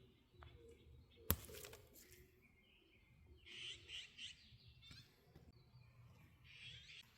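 Faint songbird calls: short chirping phrases about three seconds in and again near the end, with one sharp click a little over a second in.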